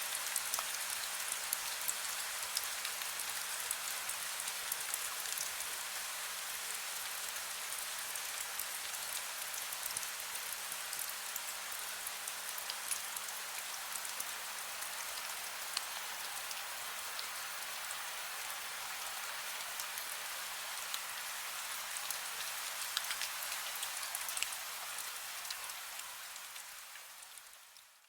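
Heavy rain falling steadily: a dense hiss with many sharp drop ticks on a surface. It fades out over the last few seconds.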